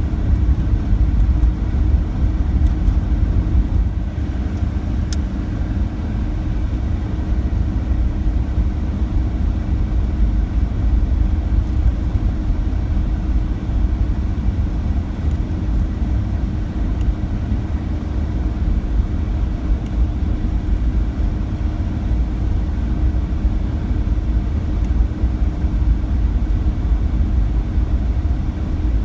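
Car driving: a steady low rumble of engine and tyre noise with a faint steady hum running through it.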